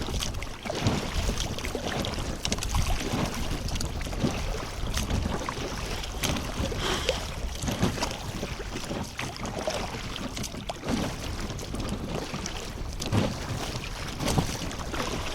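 Wind buffeting the microphone and water sloshing against a small boat on choppy water, with scattered knocks.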